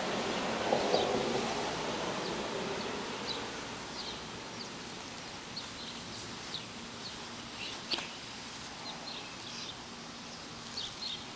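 Outdoor ambience: a steady hiss with scattered short, high chirps of small birds at irregular intervals.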